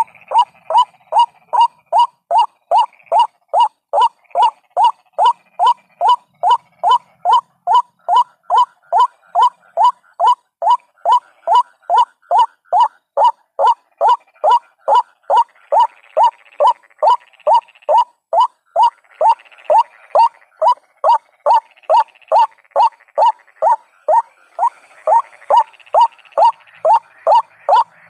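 White-breasted waterhen call, a lure recording of the bird's monotonous "kru-ak" note repeated evenly about twice a second, used to draw waterhens in.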